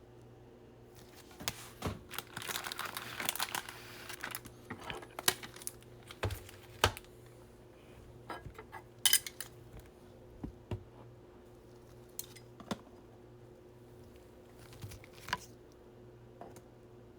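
Trading cards and plastic being handled at a table: a couple of seconds of plastic crinkling, then scattered sharp clicks and taps.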